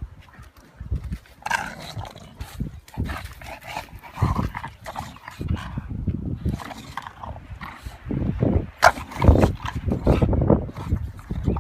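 English bulldogs making a run of short, irregular noises close by, louder in the second half.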